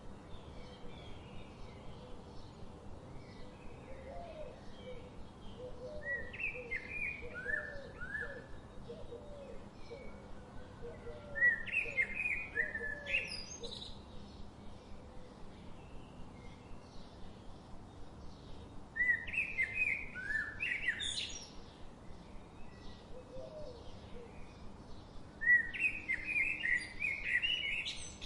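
A songbird sings four short phrases of quick notes, each ending in a high rising sweep, about every six to seven seconds. Faint chirps go on in the background, and a lower run of short quick notes comes in during the first half.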